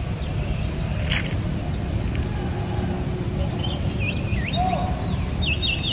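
Outdoor ambience: a steady low rumble with one sharp click about a second in, and a small bird chirping in quick repeated notes through the second half.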